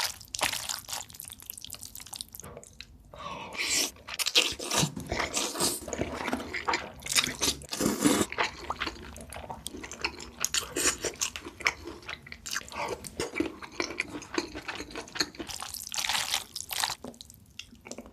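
Close-miked eating: crunchy bites and wet chewing in dense, irregular crackles, with short pauses between mouthfuls.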